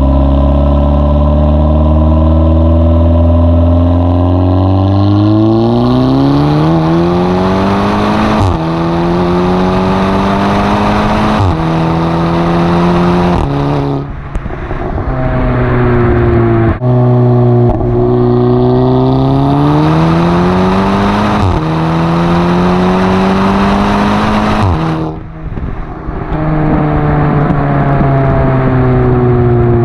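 Golf V GTI Edition 30's tuned turbocharged 2.0-litre four-cylinder through an Oettinger sports cat and Ulter Sport exhaust, pulling hard through DSG upshifts: the pitch climbs, then drops sharply at each shift with a short crack. Two such pulls, the second starting about 15 seconds in; near the end the car lifts off and settles into steady running.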